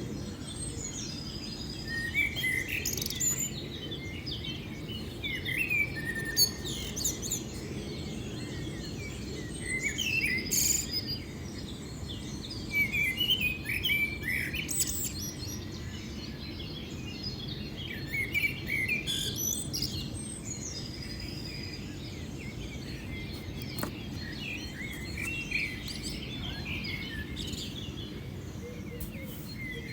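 Several small birds chirping and singing, short calls and trills coming in bursts and pauses, over a steady low background rumble.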